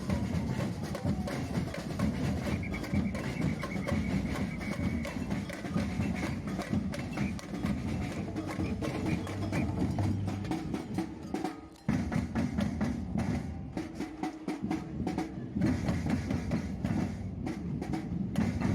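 Samba band percussion playing a fast, driving rhythm of drums with sharp wooden clicks. It drops out for a moment about twelve seconds in, then picks up again.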